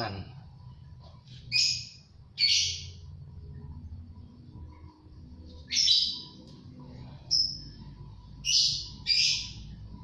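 Birds giving six short, harsh, raspy calls, some in quick pairs, over a low steady background hum.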